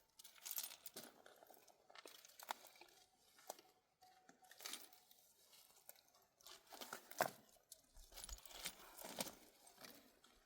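Faint, scattered crackles and rustling, a few sharper clicks among them.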